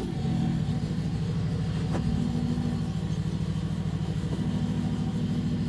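Petrol lawn mower engine running steadily at an even speed, with a single faint click about two seconds in.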